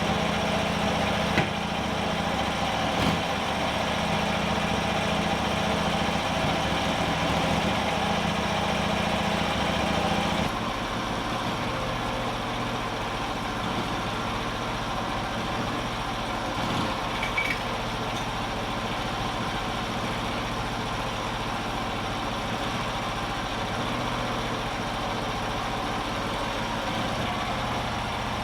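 An engine running steadily at idle, with a few light knocks. Its pitch and level change abruptly about ten seconds in.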